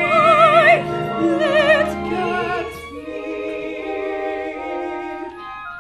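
End of a musical-theatre song: a high singing voice holds the final note with wide vibrato over orchestral accompaniment. About three seconds in, the voice stops and the orchestra holds a softer closing chord.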